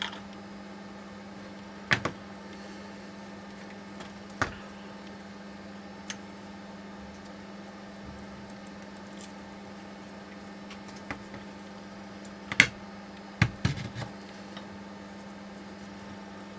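Scattered sharp clicks and knocks of metal tools and steering rack parts being handled and set down, a few at a time with pauses between, the loudest cluster near the end, over a steady low hum.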